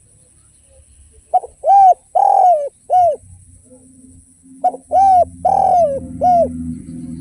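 Spotted dove (derkuku) cooing: two phrases of four coos each, every note rising and then falling away, with a short pause between the phrases.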